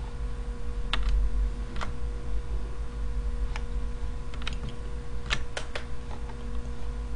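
Scattered sharp clicks of computer input, about ten in all and some in quick pairs, over a steady low hum.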